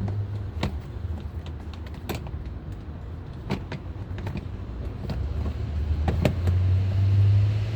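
Sharp clicks and knocks of parts being handled and fitted while a car door is put back together, about five spread out. Under them runs a low hum that grows louder in the last couple of seconds.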